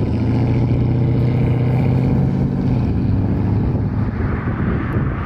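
Porsche Cayenne S engine running at a steady pitch through a muffler-deleted exhaust, a loud, deep drone. About three seconds in, the even tone gives way to a rougher, noisier sound.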